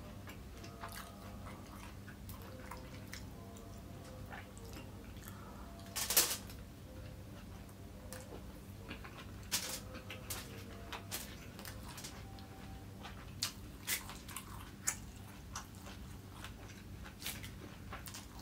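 A person chewing a mouthful of fried rice close to the microphone, with scattered short clicks and smacks of the mouth and fingers; the loudest smack comes about six seconds in. A steady low hum runs underneath.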